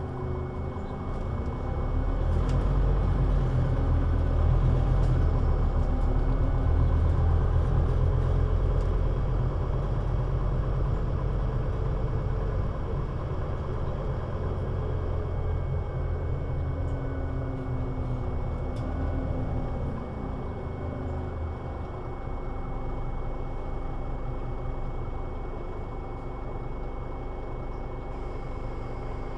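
Scania Citywide articulated bus's diesel engine running under load with a heavy low rumble. It eases off about twenty seconds in to a quieter, steadier run. A steady high whine runs underneath throughout.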